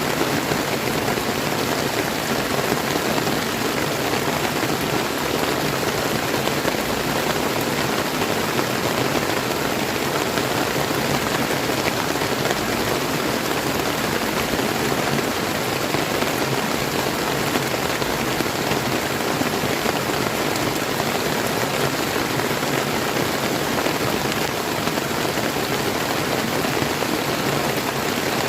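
Steady rain falling, mixed with a flowing river, a dense even hiss of water.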